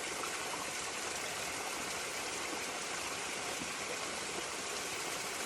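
Stream water flowing: a steady, even rushing and burbling.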